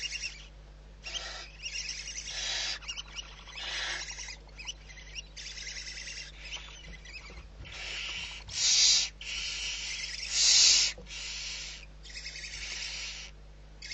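Barn owl giving a string of rasping, hiss-like screeches, roughly one a second. Two louder ones come near the end.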